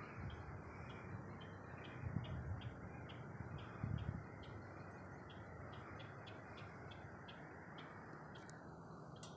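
A bird chirping over and over, short calls about twice a second, faint over a steady outdoor hiss; brief low rumbles come about two and four seconds in.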